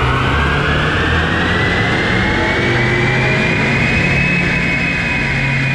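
BMW 128ti's 2.0-litre B48 turbocharged four-cylinder at full throttle on a rolling-road dyno, its baseline run on factory mapping. A whine rises steadily in pitch for about four seconds, then levels off and eases slightly as the pull tops out.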